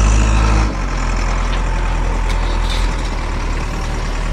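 Mahindra tractor's diesel engine running, louder for the first moment and then easing back to a steady low run.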